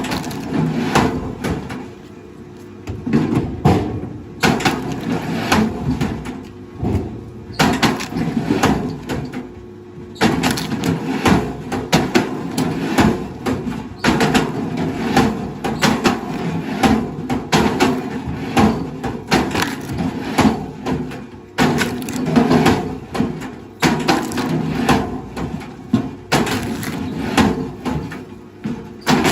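Wood cracking and crunching again and again, with many sharp, irregular cracks over a low rumble, as stumps or logs are broken up by heavy machinery.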